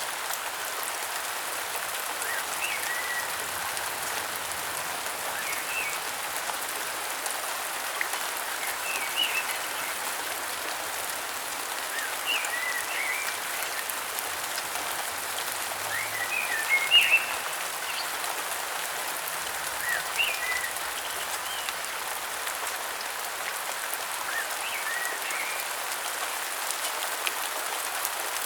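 Steady rain pattering, with short bird chirps breaking through about every three seconds, a small burst of them louder around the middle.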